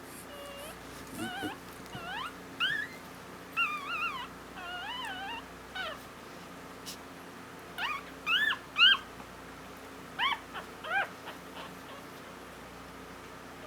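Newborn Havanese puppy squeaking and whimpering: a string of short, high-pitched cries that rise and fall in pitch, coming in bunches with pauses between, the loudest about two-thirds of the way through.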